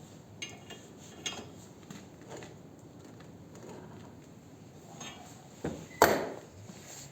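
Light metallic clinks and taps of steel tools and puller parts being handled, then one loud ringing metal clank about six seconds in.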